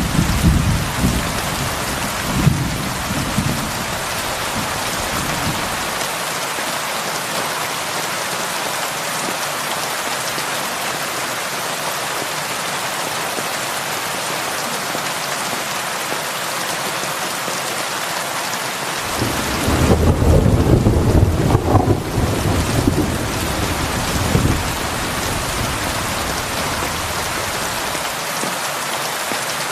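Heavy rain pouring steadily, with low rolling thunder rumbling at the start and a louder peal of thunder about twenty seconds in.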